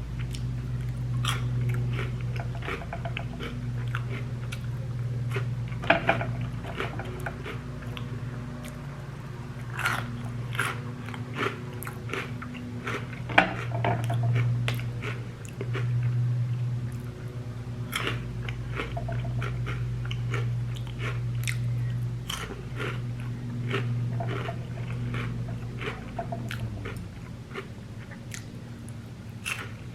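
Close-up crunching and chewing of Flamin' Hot Cheetos topped with nacho cheese and sour cream, with sharp crunches scattered throughout. Behind it runs a steady low engine drone from a lawn mower.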